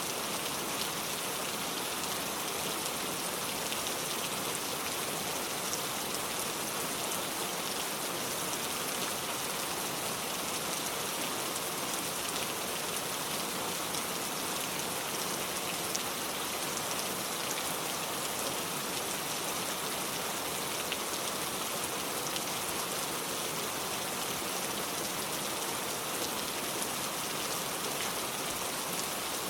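Heavy rain falling steadily, a dense hiss made of many small drop ticks.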